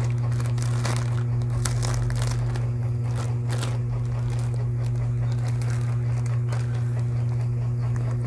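Clear plastic packaging crinkling and rustling as it is pulled off a new sling bag, in irregular handfuls, over a steady low electrical hum.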